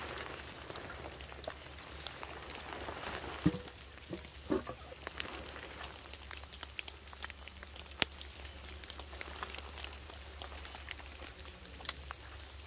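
Light rain pattering as a soft even hiss with many small scattered drips, and a few short knocks of a spoon in a metal mess cup.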